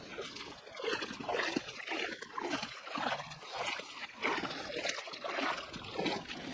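Feet wading through a shallow stream, water splashing and sloshing with each uneven step.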